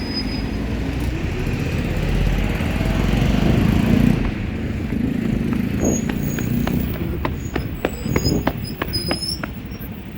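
A road vehicle passing close by: engine and tyre noise swells to a peak about four seconds in, then eases off. In the last few seconds comes a run of sharp clicks with a few short high squeaks.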